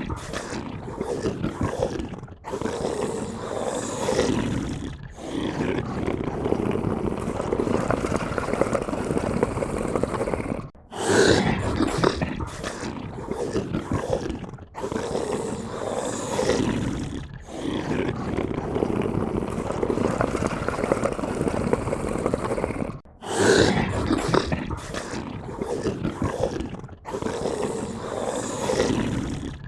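Monster growl sound effect: a run of long, rough growls a few seconds each, with short breaks between them. The sequence repeats about every twelve seconds.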